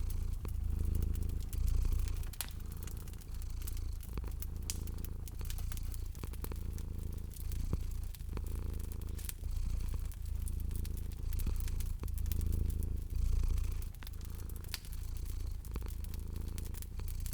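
A cat purring steadily in a low rumble that swells and fades with each breath, about once a second, over a wood fire crackling with frequent sharp snaps and pops.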